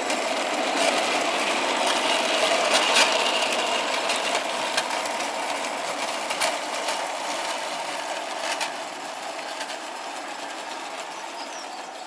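Live-steam garden-railway model of an 1888 Sharp Stewart Darjeeling Class B locomotive running with its carriages: a steady hiss and clatter with a few sharp clicks, fading gradually.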